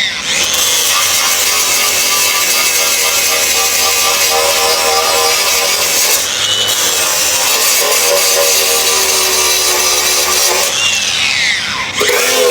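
Power tool running steadily on metal, its pitch dipping and recovering near the end.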